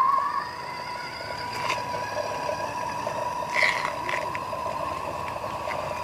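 Small electric motor of an RC model truck running with a steady high whine, a few light clicks and scrapes over it.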